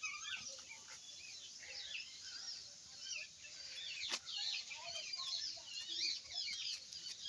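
Many birds chirping and calling over one another in a dense, continuous chorus, with a sharp click about four seconds in.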